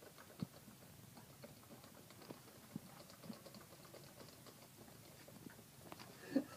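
Faint, scattered small knocks and rustles of a book being handled and its pages turned at a desk.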